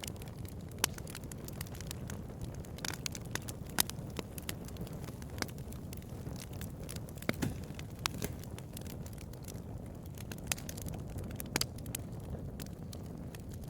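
Bonfire burning: a steady low rumble of flames with irregular sharp crackles and pops, a handful of them noticeably louder snaps.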